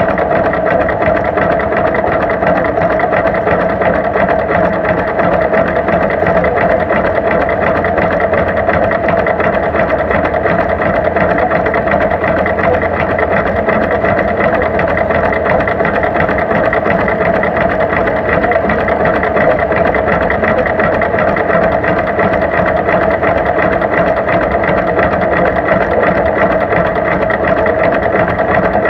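Tractor engine running steadily, a fast, even mechanical beat that holds without change.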